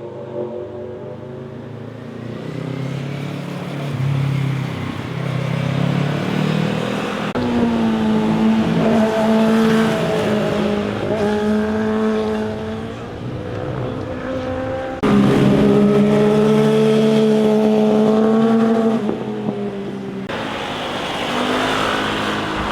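Motorcycle engines passing through mountain-road curves, their revs rising and falling with throttle and gear changes. A louder engine cuts in suddenly about fifteen seconds in and fades after about four seconds.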